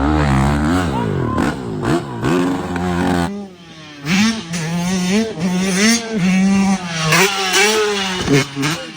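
Dirt bike engines revving, pitch rising and falling with the throttle. About three seconds in the sound cuts to another bike revving in a series of short throttle blips.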